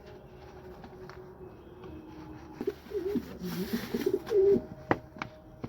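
Pigeons cooing in low, wavering calls, with a brief hiss partway through and a few sharp clicks near the end.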